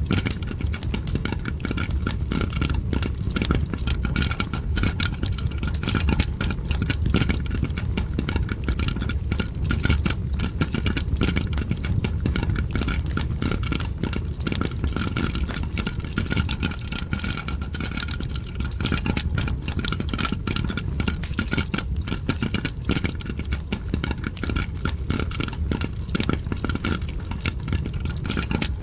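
Popcorn popping in dense, rapid pops mixed with a crackling fire, over a steady low rumble.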